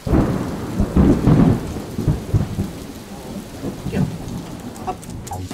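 Thunder with rain: a loud thunderclap at the start and another about a second in, then the rumble dies down over a steady rain hiss.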